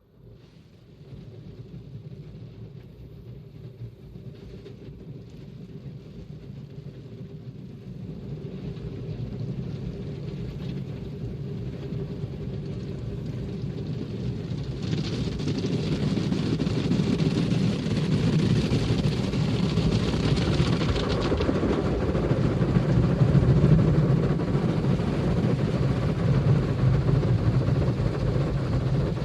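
Automatic car wash machine running, a steady mechanical hum and rumble that grows louder; about halfway a hissing rush joins in.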